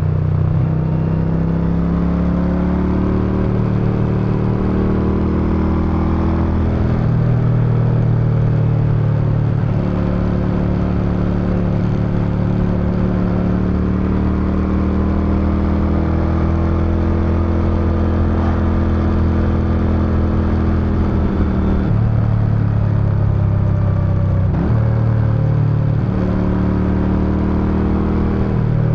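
Suzuki Intruder VS800's 805 cc V-twin exhaust while riding, a steady loud beat whose pitch rises and falls with the throttle. It steps through gear changes at about a quarter of the way in and twice more near the three-quarter mark.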